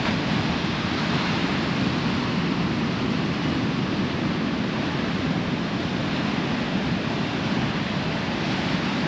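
Ocean surf breaking on the beach in a rough, choppy sea, a steady rushing wash with wind on the microphone.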